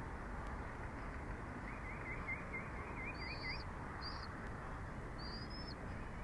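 Small bird calls over a steady low rushing background: a fast warbling trill about two seconds in, then three short high chirps.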